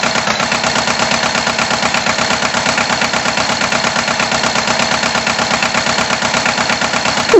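Tractor engine running steadily with a fast, even chugging pulse.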